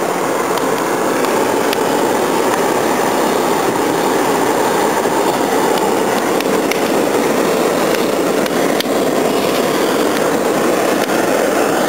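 Blower fan forcing air into a wood fire, a steady rushing noise from the fan and the blown fire, with a few faint crackles.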